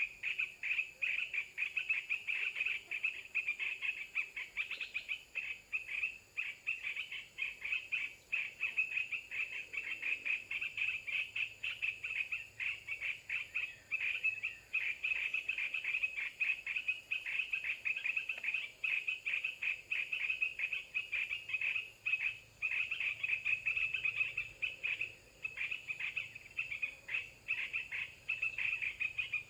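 A dense chorus of small calling animals: rapid high chirps run on without a break.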